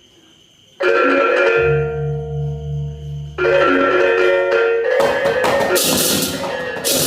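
Balinese baleganjur gamelan: loud ringing strikes on tuned gongs and kettle-gongs with a deep gong hum under them, then clashing hand cymbals (ceng-ceng) come in about five seconds in, and the full ensemble is playing loud by the end.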